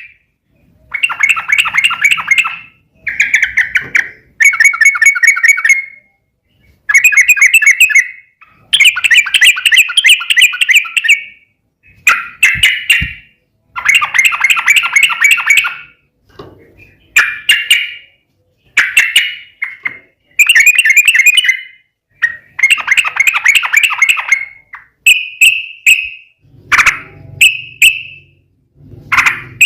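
Yellow-vented bulbul (trucukan) singing loud, bubbly chattering phrases of one to two seconds, over and over with short pauses between them; the phrases grow shorter near the end.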